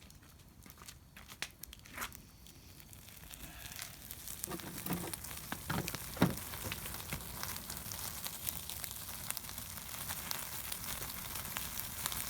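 Meat sizzling over a wood fire. There are scattered clicks and crackles at first, then a hiss that builds over a few seconds and holds steady, with a few knocks around the middle.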